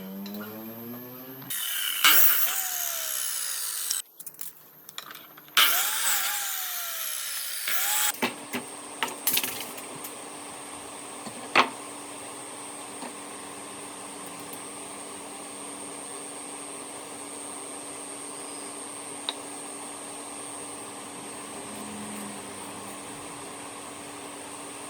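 Electric power tool run in two short bursts of about two and a half seconds each, its motor pitch rising as it starts, then a steady machine hum with a sharp click partway through.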